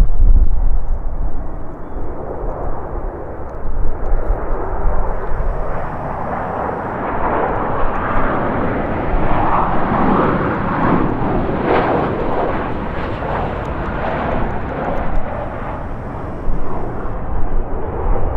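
Jet airliner passing close by, its engine noise swelling to a peak about ten seconds in and then fading away, over the low rumble of strong gusting wind buffeting the microphone.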